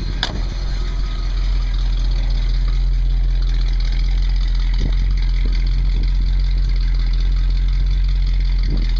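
1960 Cadillac Coupe de Ville's 390 cubic-inch V8 idling steadily, with a single sharp click just after the start.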